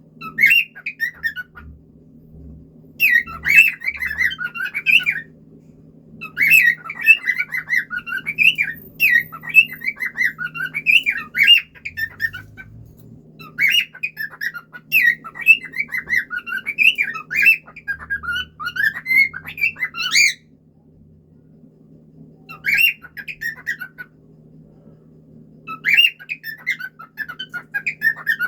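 Cockatiel singing: bouts of quick, warbling whistled and chirping phrases that rise and fall in pitch, broken by pauses of one to two seconds. A faint steady hum runs underneath.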